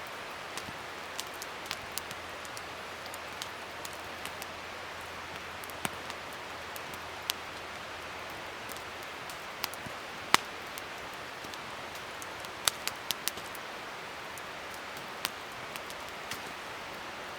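Wood fire burning with a steady hiss and irregular sharp pops and crackles, the loudest pop about ten seconds in and a quick cluster of pops a little later.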